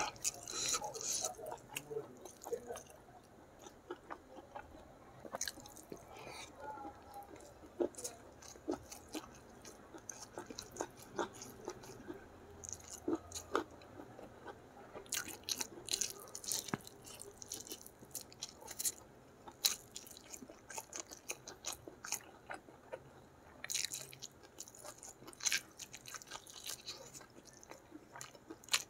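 Close-miked chewing and biting of a mouthful of chicken gulai with rice and sambal petai: wet mouth sounds with many short, sharp clicks and crunchy bites scattered throughout.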